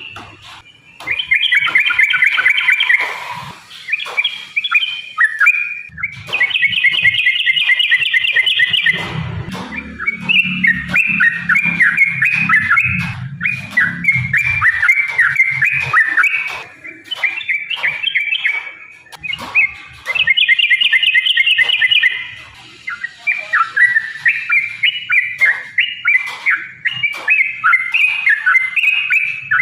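Yellow-vented bulbul (trucukan) song: long runs of rapid, bubbly chattering phrases, several seconds each, broken by short pauses. A low rumble sits under the song for a few seconds near the middle.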